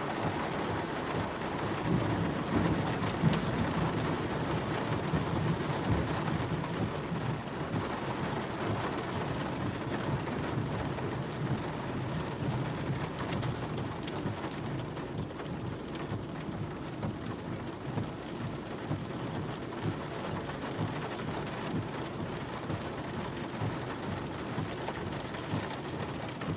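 Heavy monsoon rain drumming on the car body, heard from inside the car, with many small drop ticks over a low, steady rumble. It is loudest for a few seconds shortly after it begins, then settles.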